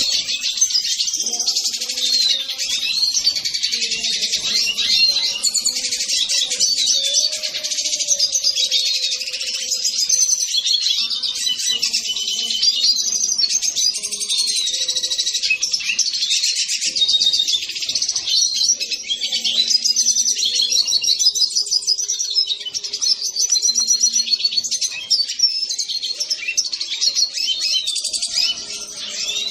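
Brazilian songbirds singing without pause: a dense, fast stream of whistled notes, warbles and trills.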